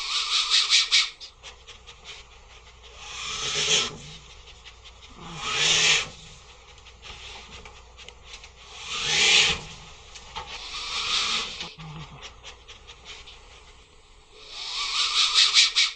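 An animal's loud, noisy breaths or snorts, about six of them a few seconds apart, with fast ticking sounds in between.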